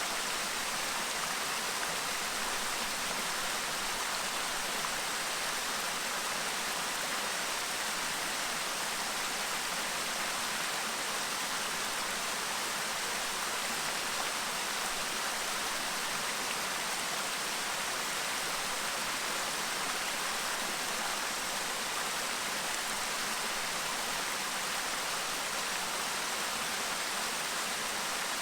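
Clear stream babbling over rocks, a steady rush of running water.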